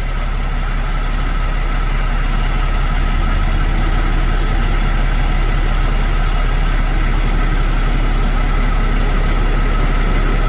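Heavy diesel truck engine idling steadily, a constant low rumble with a steady higher tone above it.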